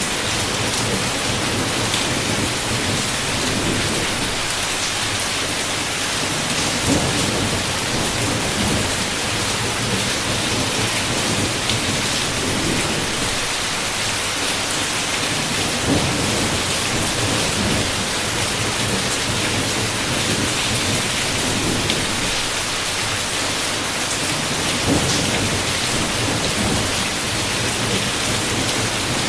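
Heavy rain pattering steadily on a window, with low rolling thunder that swells and fades beneath it. Three brief sharper hits stand out, about a quarter, half and five-sixths of the way through.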